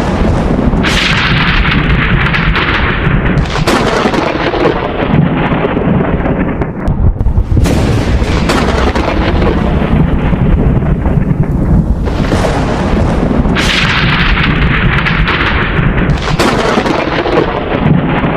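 Thunder: about five sharp cracks, each trailing off into a long rolling rumble, over a continuous low rumble.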